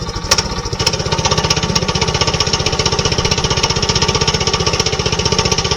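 Small gasoline engine on a portable sawmill running steadily, just after being pull-started, with a fast, even chatter.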